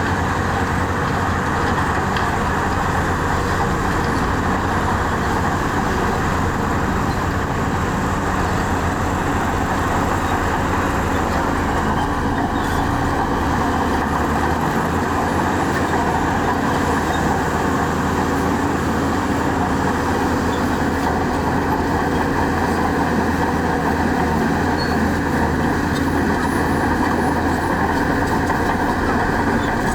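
Heavy diesel earthmoving machinery (bulldozer and dump trucks) running steadily under load.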